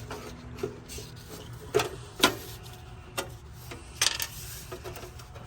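Hand-tight screws being turned out and the sheet-metal electrical panel cover of an old Trane condensing unit handled: scattered light metal clicks and taps with some rubbing, the sharpest about two seconds in.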